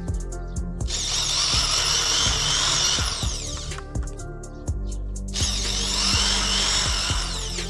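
Small electric drill or rotary tool running in two long bursts, stopping briefly about four seconds in, over background music with a steady beat.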